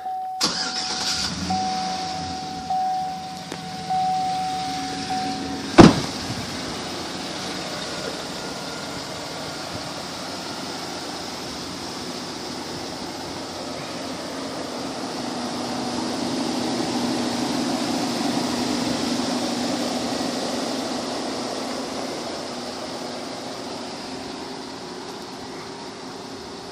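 Truck engine idling just after being started, with a chime beeping repeatedly for the first few seconds and one sharp knock about six seconds in. The engine sound grows somewhat louder around the middle, then eases off.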